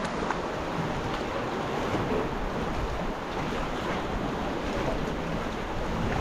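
Sea water washing and lapping around a sea kayak, with wind rumbling on the microphone.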